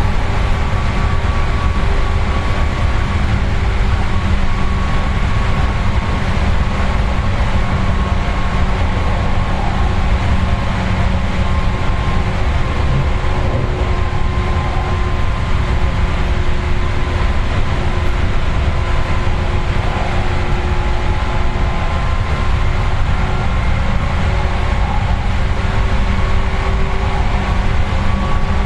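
Running noise inside a Seibu 4000 series resistor-controlled electric train car: wheels on rail and traction motors running at an even speed, with a steady motor and gear hum over the rumble.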